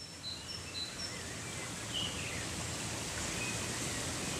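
Nature ambience: birds chirping in short, high notes, most of them in the first couple of seconds, over a steady rushing background noise that swells slightly about two seconds in.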